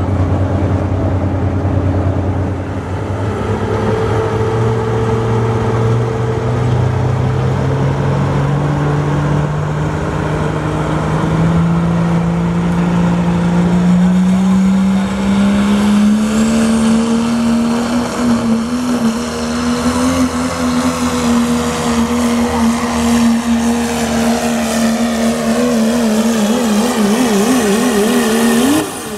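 Dodge diesel pickup truck pulling a sled at full throttle: the engine note climbs steadily for the first half as the truck gains speed, then holds high. It wavers near the end and cuts off sharply as the throttle comes off.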